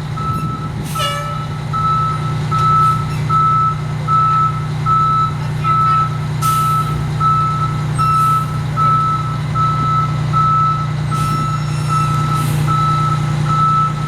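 Fire engine running at a steady idle with its reversing alarm beeping, just under two beeps a second, and a few short hisses of air.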